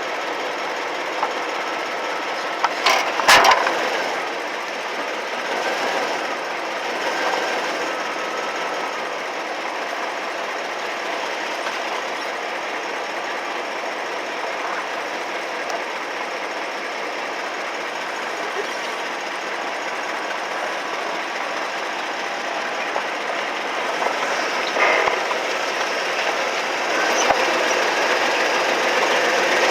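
Steady mechanical running noise, with a sharp knock about three seconds in and a few fainter knocks near the end.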